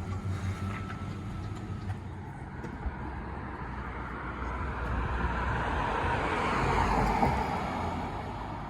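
Motorcycle engine of a 1960 Triumph Bonneville T120, a 650 cc parallel twin, running: it swells to its loudest about seven seconds in and then fades, as in a pass-by.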